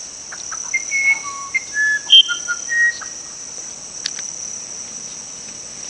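A songbird sings a short phrase of clear, pure whistled notes, each at a different pitch, jumping up and down. It sounds over a steady high-pitched chorus of insects.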